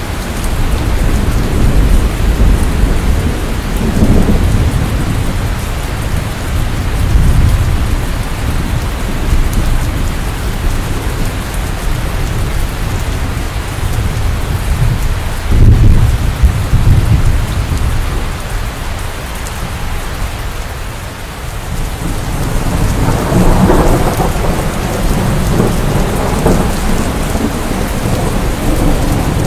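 Steady rain with low rolling thunder. A sudden, loudest crack of thunder comes about halfway through, and another rumble swells up later on.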